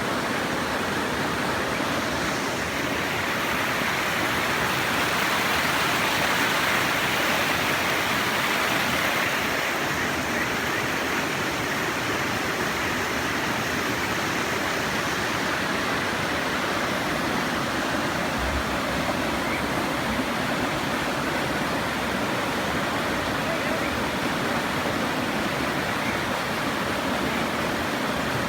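River water rushing, a steady, even noise, slightly louder from about four to ten seconds in.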